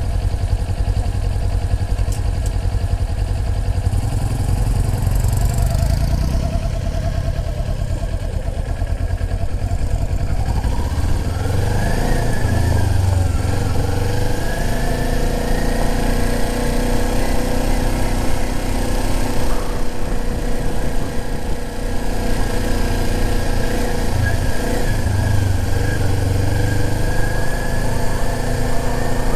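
Motorcycle engine running as the bike is ridden, the pitch climbing about eleven seconds in as it speeds up, then holding a steadier tone.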